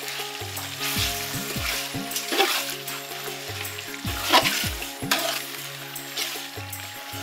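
Spiced chicken and chickpeas sizzling in a large aluminium pot while a metal spoon stirs them, with a few sharp scrapes of the spoon against the pot, the clearest about two and a half, four and five seconds in. This is the frying stage, with the chickpeas just stirred into the chicken masala.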